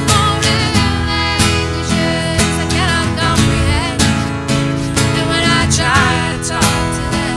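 Live acoustic music: a strummed acoustic guitar playing a steady rhythm, with a wavering melody line above it.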